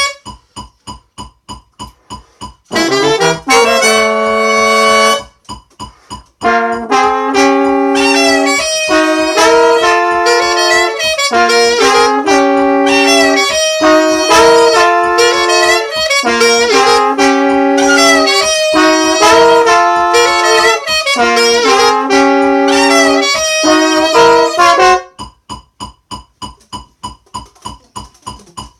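A small horn section of saxophone and brass plays a soli passage in close-voiced chords: sustained notes moving together, with a short break about five seconds in. A steady, even ticking, like a click track, is heard alone at the start and again for the last few seconds.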